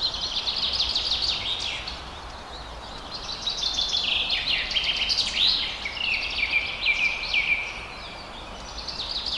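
Small birds chirping in rapid, overlapping calls, easing off briefly around two seconds in and again near the end.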